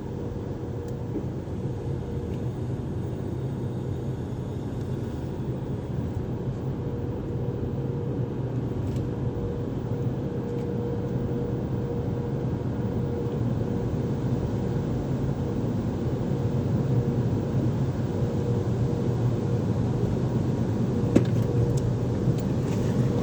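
Express car wash tunnel equipment heard from inside a car: a steady rumble with a constant whine, slowly growing louder, with a sharp click near the end.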